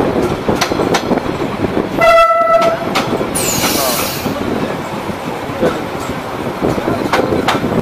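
Diesel multiple-unit commuter train running on the track: a steady rumble with repeated wheel clicks over rail joints. A short single-tone horn blast comes about two seconds in, followed a second later by a brief hiss.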